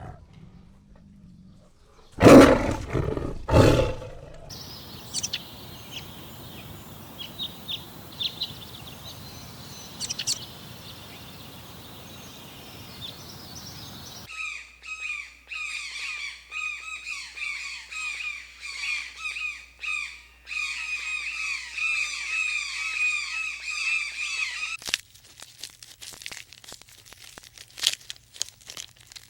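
A loud, short animal call about two seconds in. Then open-air background with scattered bird chirps, followed by about ten seconds of dense, continuous chirping from many birds. The chirping cuts off, and a few light clicks follow near the end.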